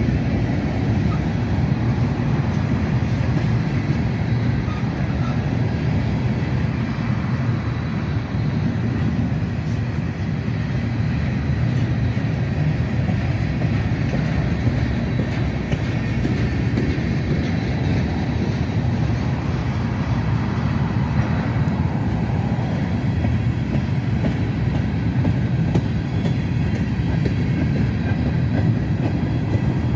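Freight train cars rolling past on the rails: a steady, even rumble without horn.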